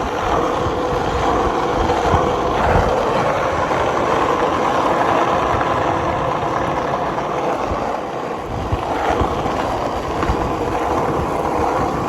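Skateboard wheels rolling steadily over a paved road, a continuous rumbling roll, with wind buffeting the microphone.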